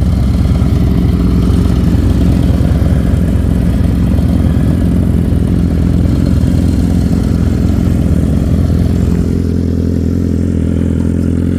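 Motorcycle engine running steadily, then settling to a lower, steadier sound about nine seconds in.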